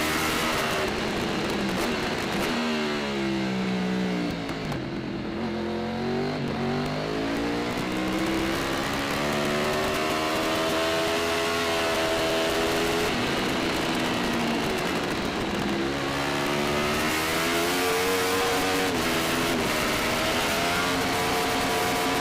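Superbike engine heard from a camera mounted on the bike. Its revs drop about three to five seconds in, climb again, hold steady for several seconds, then rise and fall again near the end.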